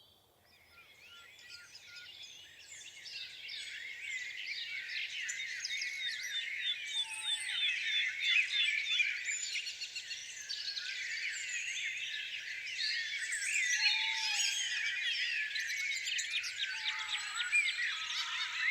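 Many songbirds singing and calling at once, a dense chorus of overlapping short chirps and whistles that fades in from near silence over the first few seconds.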